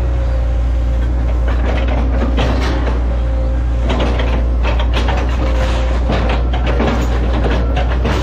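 Hitachi ZX110 excavator's diesel engine running steadily with a low drone. Irregular crackling and clatter come over it, several times a second in clusters.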